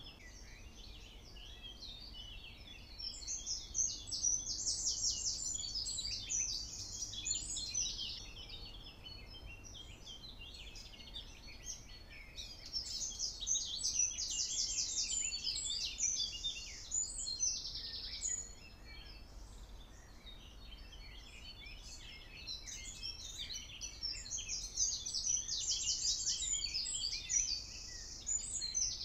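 A songbird singing a long, fast, high trilling song three times, about every ten seconds, with faint chirps in between, over a low steady background rumble.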